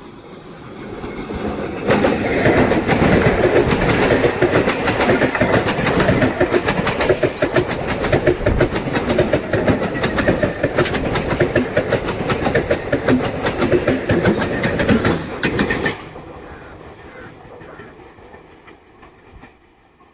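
Electric multiple unit local train passing at speed, its wheels clattering rapidly over the rail joints. It builds up over the first two seconds, stays loud for about fourteen seconds, then cuts down sharply and fades away.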